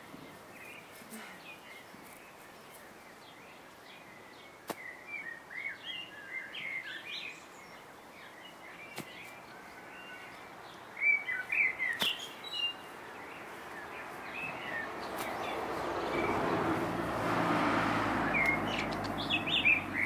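Songbirds chirping on and off, with a few faint clicks. In the last few seconds a rushing noise swells and fades.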